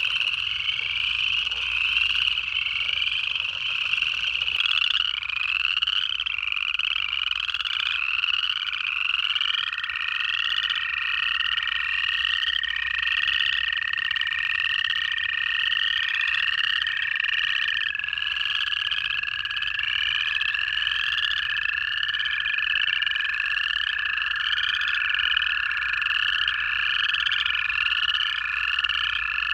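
Chorus of upland chorus frogs giving their rising trills over and over, with long, steady-pitched trills of American toads coming in about a third of the way through and overlapping to the end. Faint, low chuckling of southern leopard frogs sounds in the first few seconds.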